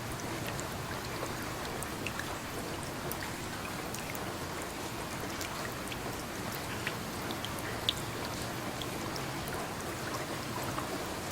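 Steady rainfall: an even hiss of rain with scattered individual raindrops ticking close by, one a little louder about eight seconds in.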